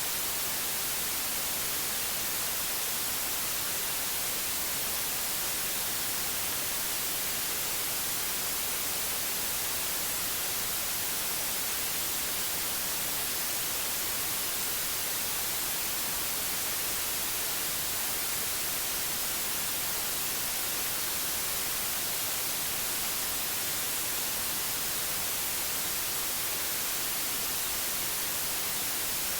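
Steady white noise: an even hiss, strongest in the treble, that does not change in level or character.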